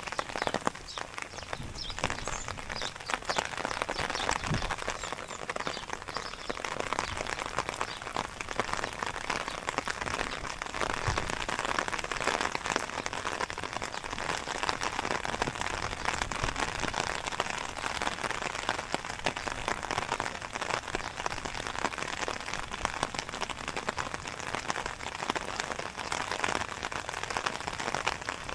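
Steady rain falling, a dense continuous patter of drops.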